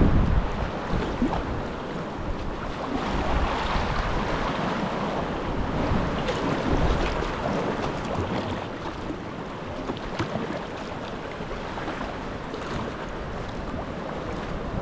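Gusty wind buffeting the microphone over the wash and slosh of choppy sea water, with small splashes.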